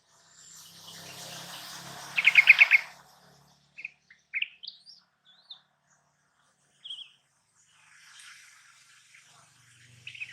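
Yellow-vented bulbul (trucukan) calling. A loud rapid run of about six notes comes about two seconds in, then scattered short chirps, then softer chattering near the end.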